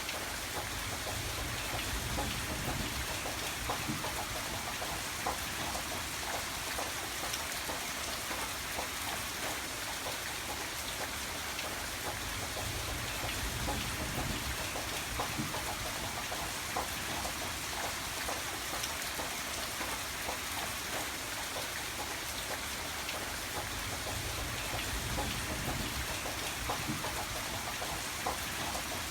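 Steady rain falling, with many separate drops striking a surface, and a low rumble that swells and fades every several seconds.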